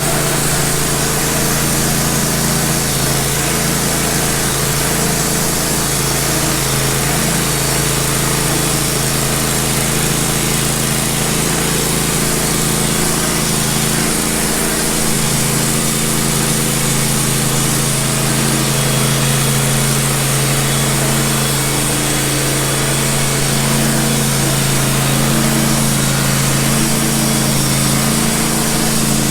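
Engine of a portable band sawmill running steadily at constant speed while the blade saws through a log.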